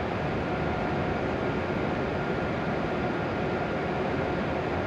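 Steady whirring hum of an E7-series Shinkansen standing at the platform with its on-board equipment running, with a couple of faint steady tones.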